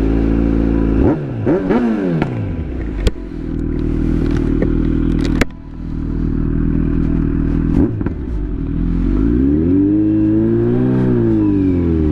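2022 Kawasaki Z900's inline-four engine running while riding, its revs rising and falling with throttle and gear changes. A couple of sharp clicks come partway through.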